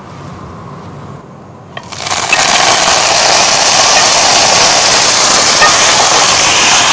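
Food going into a pan of hot oil: a sudden loud sizzle starts about two seconds in and keeps going steadily.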